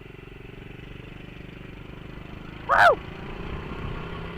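Small 50 cc pitbike engine, a 1997 Honda Z50R, running steadily and slowly getting louder as the bike rides off. A loud shout of 'woo!' near the end is the loudest moment.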